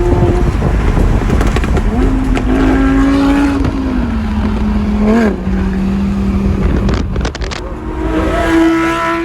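High-performance car engines revving and accelerating loudly over a deep exhaust rumble, the engine note climbing about two seconds in, dropping back around the five-second mark, then climbing again near the end.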